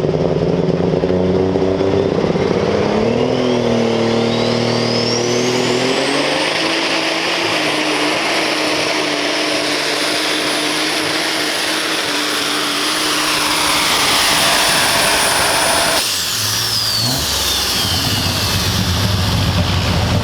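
Turbocharged diesel pulling tractor making a pull: the engine revs up and the turbocharger whine climbs over a few seconds to a high steady pitch, held for about ten seconds. About sixteen seconds in the engine is abruptly throttled off, the turbo whine falls away over a few seconds and the engine drops back to a low idle.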